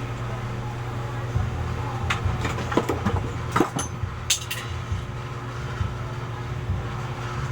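Small sharp clicks and taps from handling an eyeglass frame as parts are fitted back on, clustered between about two and four and a half seconds in, over a steady low hum.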